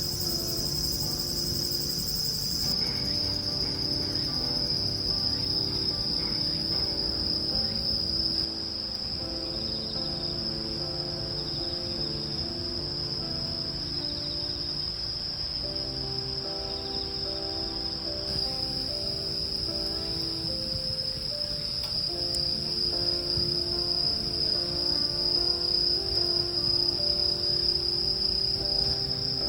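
Insects trilling in one steady, unbroken high-pitched tone, over soft background music of gently changing held notes.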